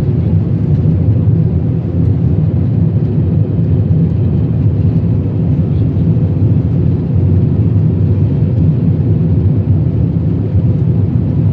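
Airliner cabin noise during takeoff: the jet engines run at high power with a loud, steady, low rumble and no changes.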